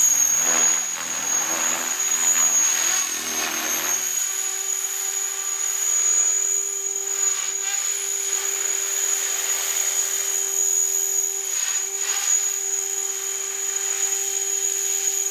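Remote-control helicopter whining steadily at a high, constant pitch, with a louder rushing sound over the first few seconds.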